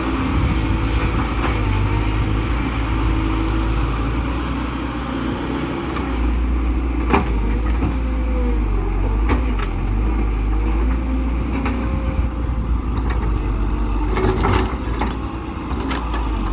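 Excavator's diesel engine running steadily, with a few sharp knocks now and then.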